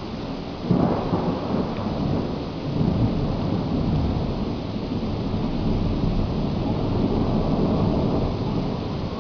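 Thunder cracks suddenly about a second in and rolls on in a long, low rumble that swells again and slowly eases, over the steady hiss of heavy rain.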